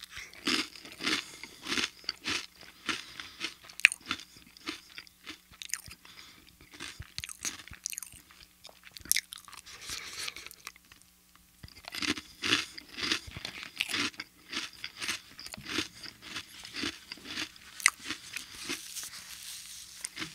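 Close-miked chewing of a crunchy snack: fast, crisp crunches, with a short lull about halfway through before the crunching picks up again.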